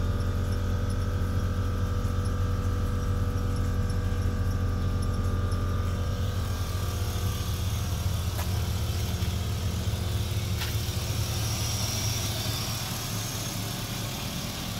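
A 1965 Chevrolet Impala's swapped-in, modern fuel-injected GM V8 idling steadily, with a low, even hum.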